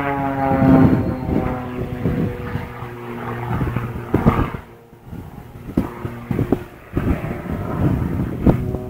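Propeller airplane engine droning as it flies by, its pitch falling around the start and then holding steady, with scattered short thumps on the microphone.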